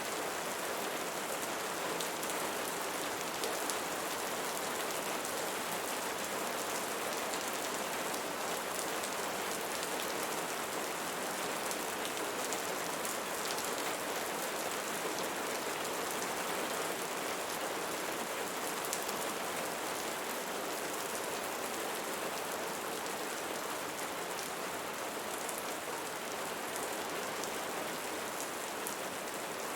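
Steady rain falling on a surface, an even hiss with fine drop ticks.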